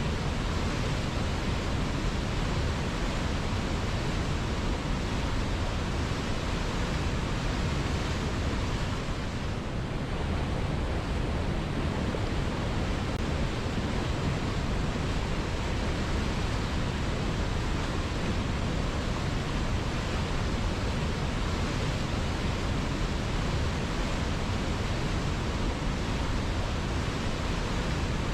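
River water flowing, a steady rushing wash with no changes, strongest in the low range.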